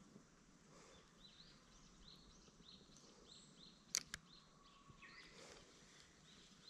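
Faint bird song from the surrounding woods: a run of short, arched high notes repeated about three times a second, with two sharp clicks about four seconds in.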